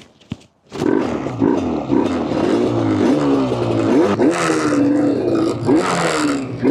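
Yamaha RD350LC two-stroke parallel-twin engine in a Cagiva Mito, revved up and down in repeated blips. It starts less than a second in, after a single click.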